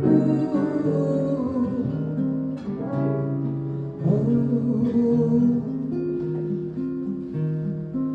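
A small acoustic ensemble plays a slow jazz ballad: acoustic guitar chords with sustained pianica and flute lines, and a voice holding a wavering note over them.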